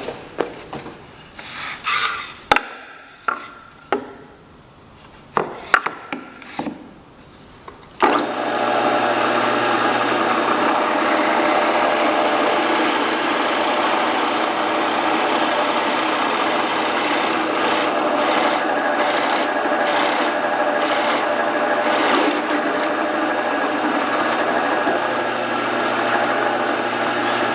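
Scattered knocks and clatters of wooden pieces being handled, then about eight seconds in a woodworking power tool starts suddenly and runs steadily.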